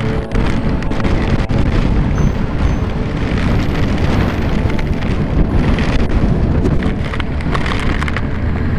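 Heavy wind buffeting on the microphone of a motorcycle riding through a storm: a loud, steady, deep rumble.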